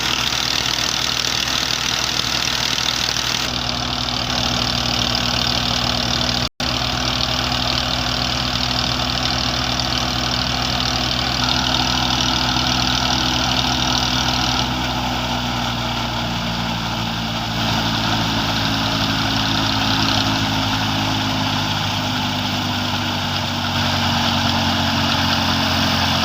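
Tractor engine running steadily under throttle, its pitch stepping to new speeds several times. A split-second gap about six seconds in breaks the sound.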